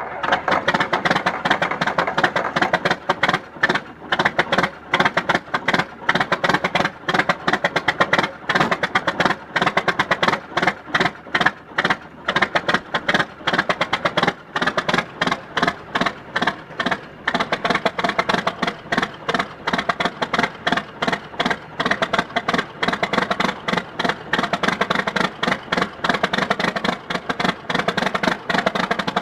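John Deere diesel tractor engine that has just caught on a cold start, running with a fast, steady knocking clatter.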